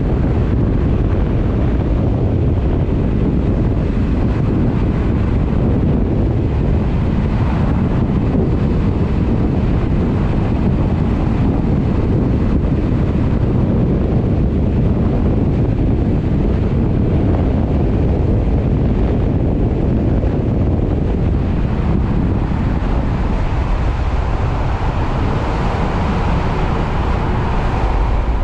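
Heavy wind buffeting the microphone: a steady, loud low rumble with a rushing hiss above it.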